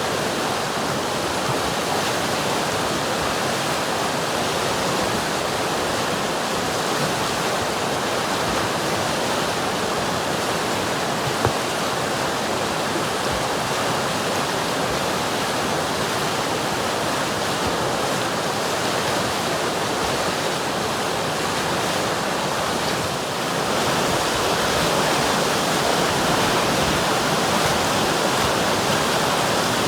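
A river's water rushing and murmuring steadily, an even unbroken hiss of flowing water. It gets a little louder about three quarters of the way through.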